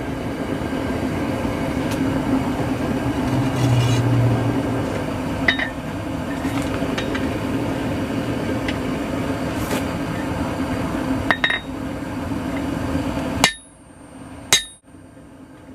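A steady rushing roar, as of a running forge, with a few sharp metallic clinks of hammer on steel spread through it. The roar cuts off near the end, and two more clinks follow.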